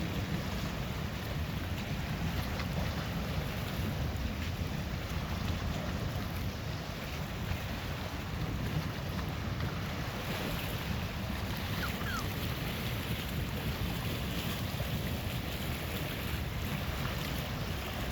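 Steady wind buffeting the microphone, a low rumble, over a constant wash of waves on the Lake Superior shore.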